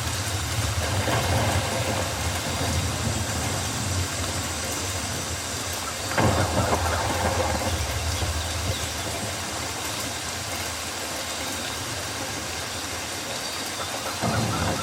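Steady rainforest rain, an even hiss. A low rumble underneath fades out about eight seconds in, and there are brief louder swells about a second in, about six seconds in and near the end.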